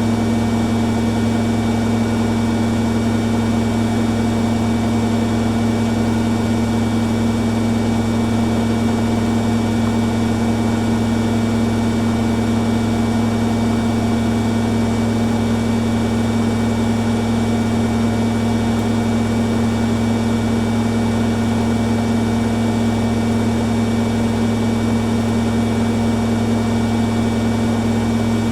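Two front-loading washing machines, a Hoover Dynamic Next and a Beko Pro AquaTech, spinning at speed on their spin cycles: a steady drum-and-motor hum with a steady whine and no change in pitch or level.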